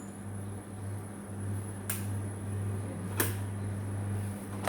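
Two sharp clicks of kitchenware, about two seconds in and again a second later, over a steady low electrical hum.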